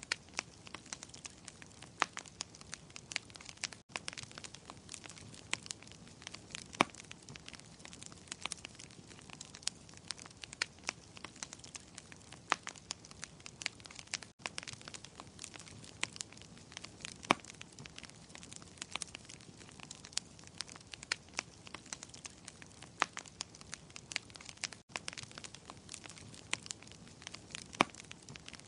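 Wood fire in a fireplace crackling, with a steady soft hiss under many sharp irregular pops and snaps. Three very brief gaps fall about ten seconds apart.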